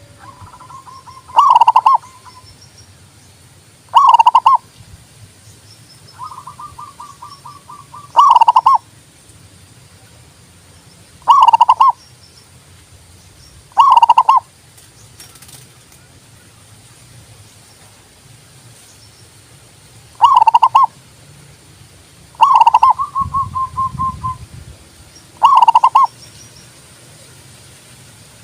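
Zebra dove (perkutut) singing: about eight loud, clear coo notes every few seconds, some led in by a quick rolling trill of short notes.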